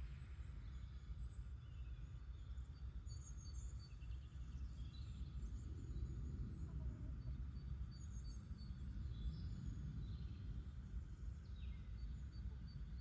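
Quiet garden ambience: a steady low rumble with faint, scattered high bird chirps.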